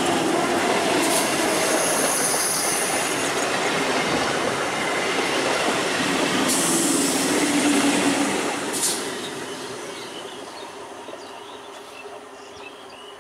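Eastern Railway EMU local train running close past on the track, its wheels and coaches rattling, with high-pitched wheel squeal at times. It dies away over the last few seconds.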